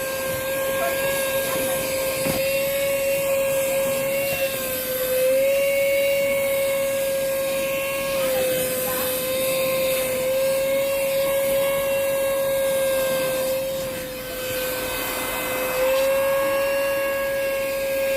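Gaabor mini handheld car vacuum cleaner running: a steady high motor whine over rushing air hiss. Its pitch sags briefly a few times, longest and with a slight drop in level about fourteen seconds in.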